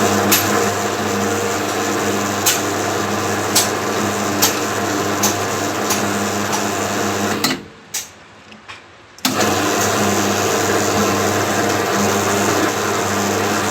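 Cylinder boring machine running steadily as it rebores a Hero Honda motorcycle engine cylinder, with sharp ticks now and then. The hum falls away about seven and a half seconds in and cuts back in suddenly over a second and a half later.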